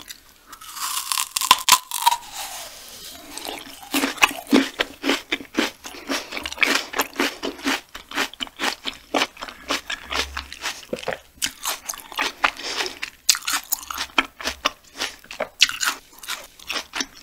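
Close-miked biting and chewing of raw banana stem core: a wet bite, then many crisp, juicy crunches as it is chewed.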